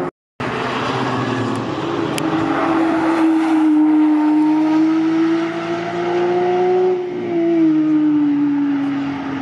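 Porsche 911's flat-six engine passing at a steady, high-pitched note that climbs slightly and is loudest about four seconds in. About seven seconds in, the pitch drops as the car pulls away. The sound cuts out briefly at the very start.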